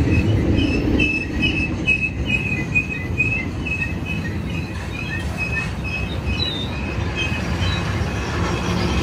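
Cars of a BNSF unit freight train rolling past, with a steady low rumble and short, repeated high-pitched wheel squeals about twice a second.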